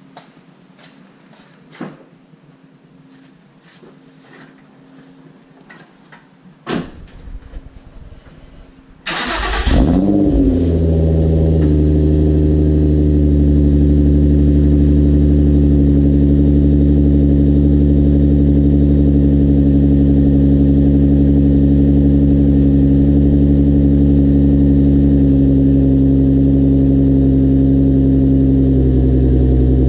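Nissan 350Z's 3.5-litre V6 cold-starting through a Motordyne cat-back exhaust: a few quiet clicks and a thump, then about nine seconds in a short burst of cranking before the engine catches with a rev flare. It then settles into a steady, loud fast idle.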